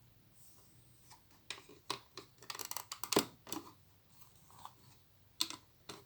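Small plastic Lego pieces clicking and clattering as they are handled and pressed together: a quick run of sharp clicks from about one and a half to three and a half seconds in, then a few more near the end.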